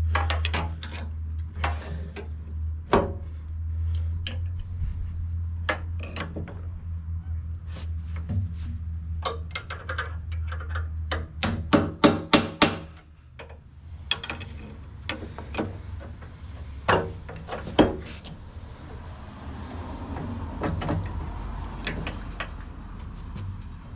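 Hand tools clanking, scraping and knocking against the steel of a skid steer's Quick-Tach coupler as parts are pried at, with a quick run of about five hard strikes near the middle and another single strike a few seconds later. A low steady hum runs beneath the first half and drops away at that run of strikes.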